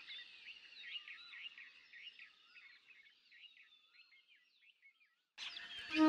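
Faint chorus of several small birds chirping and twittering, thinning out and fading away about four seconds in. Just before the end a louder background hiss comes in.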